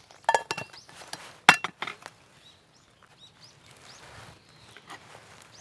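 Metal camp cookware clanking: a few sharp knocks with a short metallic ring, the loudest about one and a half seconds in. Faint bird chirps follow.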